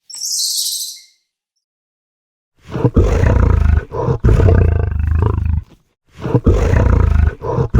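A large animal's deep, rough call, about three seconds long, heard twice the same way, after a short high hiss in the first second.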